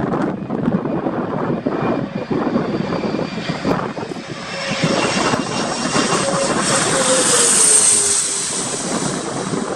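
Jet airliner passing by, its engine whine and rush growing to a peak about eight seconds in, with a tone falling in pitch as it goes past. Gusty storm wind buffets the microphone throughout.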